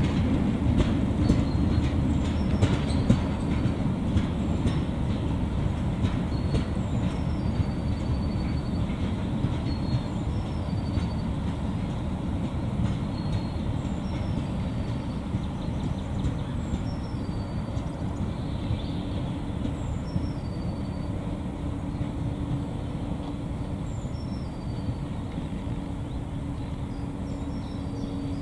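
A narrow-gauge peat railway train of steel tipper wagons rolling away on the track. It makes a low rumble with clicking from the wheels in the first few seconds, and fades steadily as it recedes.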